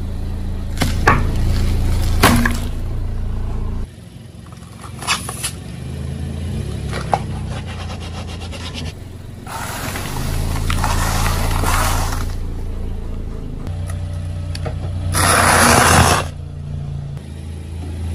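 A car's engine runs low and steady while its tyre rolls over and crushes objects. There are several sharp cracks and snaps, then two longer stretches of crunching and crackling, the second and loudest near the end.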